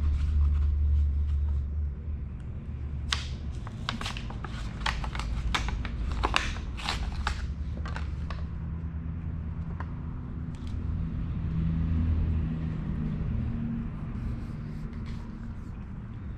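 Handling noise of a heater hose and its fittings being worked into place: a run of sharp clicks and rustles between about three and eight seconds in, with scattered ticks later, over a low steady rumble.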